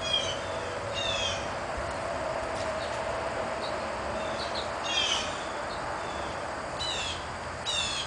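A bird calling repeatedly: about five short, downward-slurred calls, the loudest about five seconds in, over a steady background hiss.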